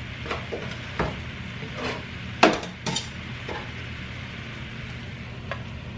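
Cookware clatter as a stir fry is handled in a pan: a handful of separate metal clinks and knocks, the loudest about two and a half seconds in, over a steady low hum.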